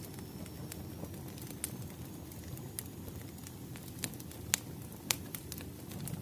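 Crackling wood fire: a steady low rumble of burning logs with irregular sharp pops and snaps, the loudest pair about four and a half and five seconds in.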